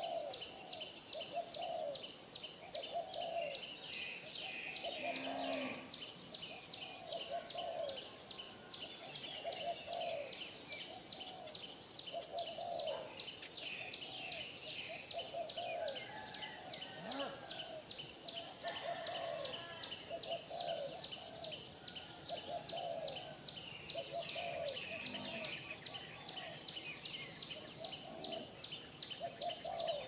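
Birds calling: a short low call repeated about once a second, with scattered higher chirps, over a high, fast, even pulsing that runs throughout.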